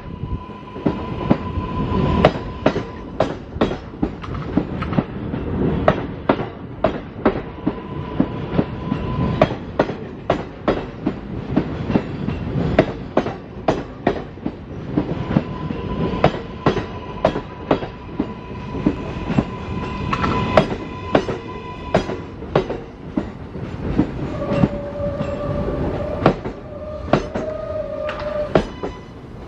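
New York City Subway L train rolling along the track, its wheels clacking over rail joints in a long run of sharp clicks, about one or two a second, over a steady rumble. A thin steady whine comes and goes, and a lower tone joins it near the end.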